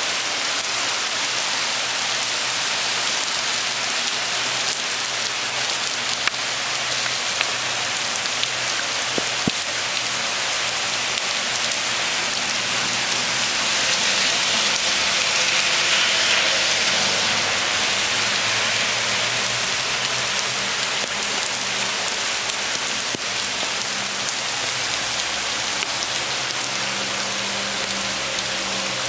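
Torrential rain pouring down in a dense, steady hiss that swells a little louder about halfway through.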